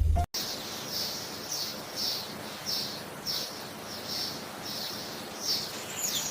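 A bird chirping repeatedly, about two short high chirps a second, over a steady hiss. The last chirp falls in pitch.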